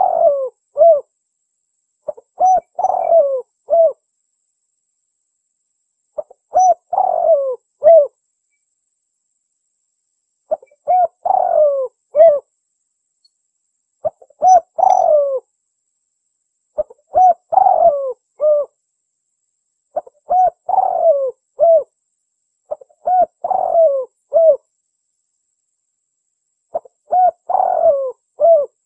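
Spotted dove (tekukur) cooing its song: a short phrase of several coos repeated about every three seconds, with silence between. The recording is a contest dove's call meant to lure wild spotted doves to the sound.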